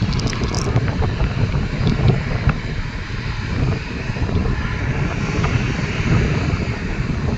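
Regional airliner's engines running on the ground at the airport, a steady low rumble mixed with wind buffeting on the microphone.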